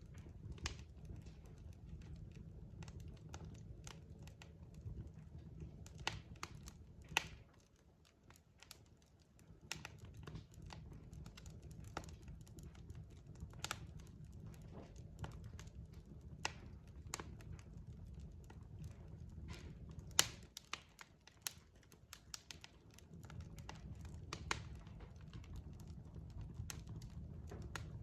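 Wood fire in a fireplace crackling, with irregular sharp pops and snaps over a low steady rumble of burning logs. The rumble drops away twice for a second or two, and the loudest pops come about seven and twenty seconds in.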